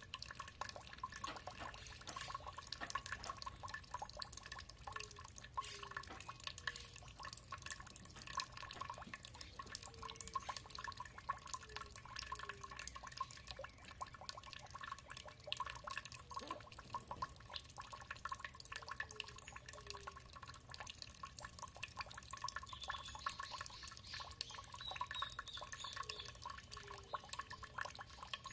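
Water dripping and trickling in a dense, steady patter of small splashes, with a few faint bird chirps near the end.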